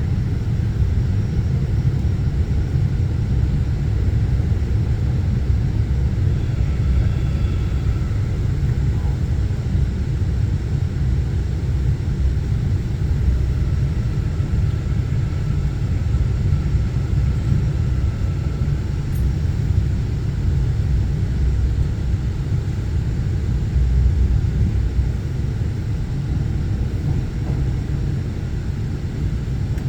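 Seoul Metro Line 4 subway train running on the track, its wheels and running gear giving a steady low rumble, with a faint whine for a while in the first half.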